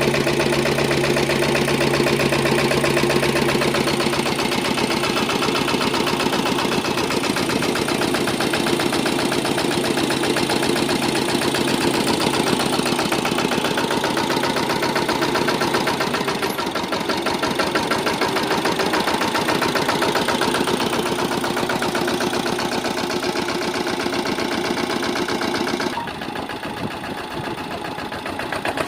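Engine of a sanedo mini tractor running steadily. Its note shifts about four seconds in and again a little past halfway, and it gets quieter near the end.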